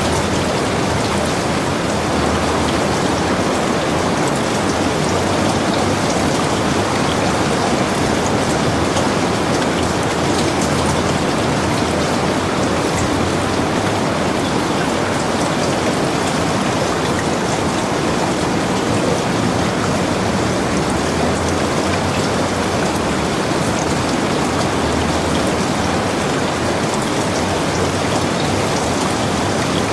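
Heavy rain falling steadily, an even dense patter of drops with no let-up.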